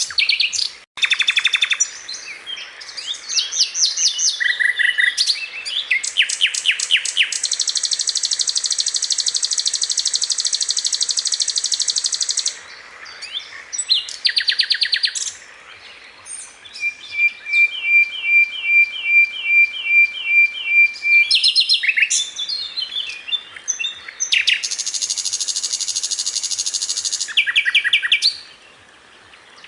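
Sikatan londo song in a bird-training recording: a fast, varied string of high chirps and trills, with long buzzy phrases and a run of short repeated notes partway through. Some phrases start and stop abruptly, as in an edited recording.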